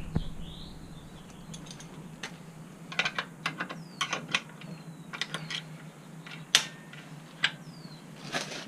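Metal clicks and taps of a wrench working a motorcycle's chain adjuster lock nut and adjuster bolt, in short scattered bursts and single knocks.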